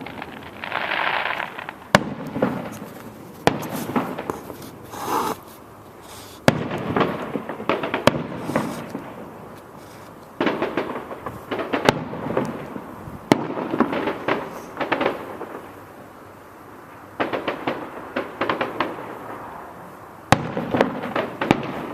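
Fireworks going off: about eight sharp bangs spaced a second or a few seconds apart, each followed by a spell of fast crackling, with a couple of hissing rushes between them.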